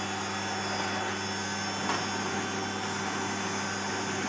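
Hoover corded vacuum cleaner running steadily on its low power setting, an even motor hum with high whining tones.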